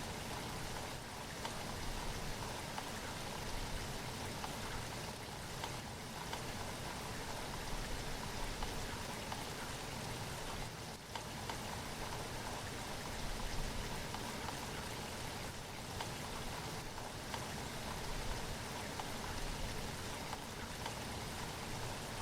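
Steady rain falling: a dense, even hiss of many drops, holding at a constant level.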